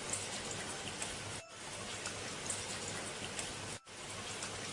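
Steady rain, a continuous even patter that cuts out briefly twice, about a second and a half in and again near the end.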